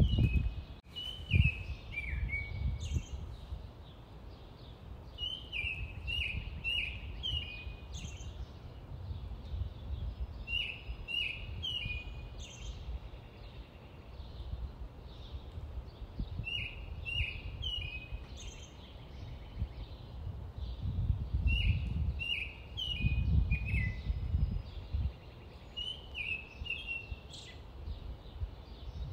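Small birds chirping: short phrases of quick, falling chirps, repeated every few seconds, over a steady low outdoor rumble.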